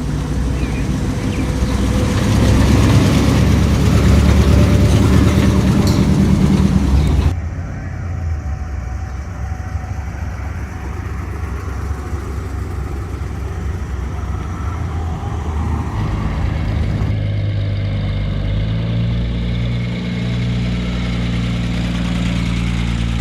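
Car engines running: a loud engine for about the first seven seconds, then an abrupt cut to a quieter engine idling steadily, which changes pitch and fills out again after about seventeen seconds.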